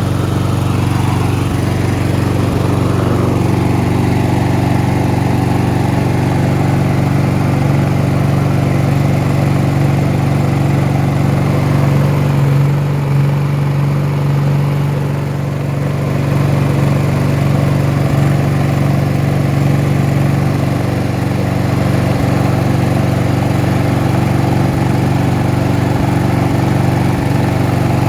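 Lawn mower's small petrol engine running steadily, a little louder for a few seconds around the middle.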